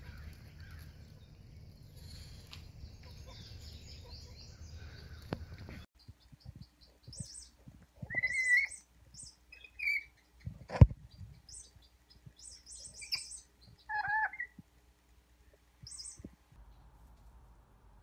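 Small pet bird giving a string of short chirps and squeaks, some rising and some falling, with one sharp knock near the middle. Before the chirps there are a few seconds of steady faint hiss with no calls.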